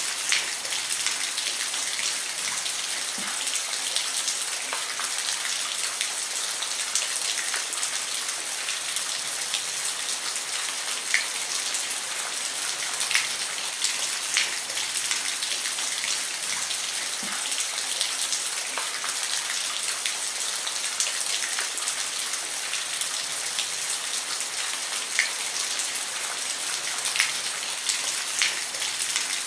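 Steady rain falling on a roof, an even patter with scattered louder individual drops striking.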